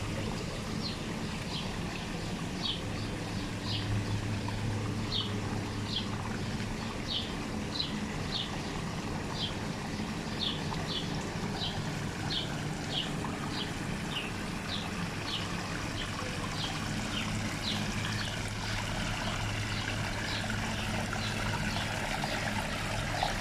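Water trickling steadily in a stream, with a steady low hum underneath. A bird repeats a short, high chirp about every half second.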